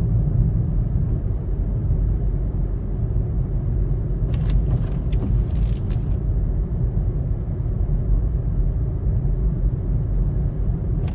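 Steady road and engine rumble of a car being driven, heard from inside the cabin, with a few brief faint hissing sounds about four to six seconds in.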